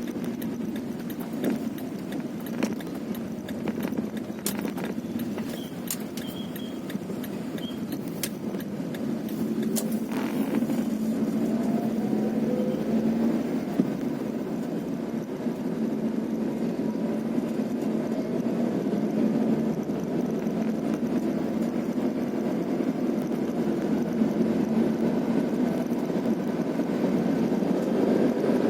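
Vehicle engine running steadily while riding along a rough road, with several sharp knocks and rattles in the first ten seconds and the engine pitch rising about eleven seconds in.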